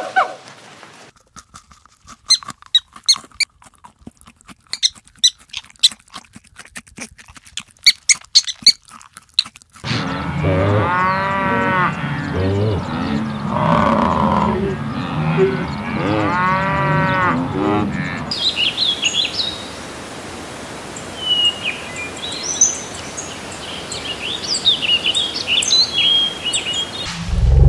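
Water buffalo lowing in two long, pitched calls in the middle of the stretch. Before them comes a run of scattered sharp clicks, and after them come short high bird chirps.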